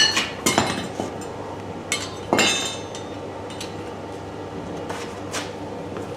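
A handful of irregular metallic clinks and strikes, steel on steel, as a blacksmith's tools and a stainless steel workpiece knock against the anvil. The louder ones ring briefly, over a steady low hum.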